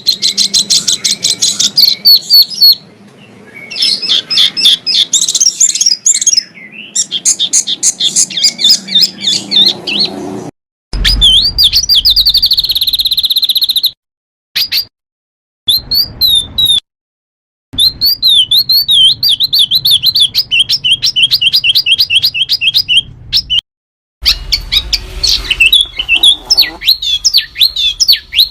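Small songbirds singing rapid, high trills and fast runs of sharp repeated chirps. The song stops dead several times in abrupt silent gaps, as edited clips are joined one after another.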